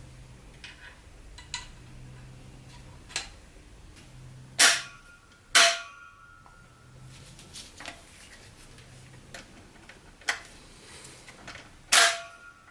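Metal parts of an automatic transmission being handled during a rebuild: scattered light clicks and three loud metallic clinks, each ringing briefly.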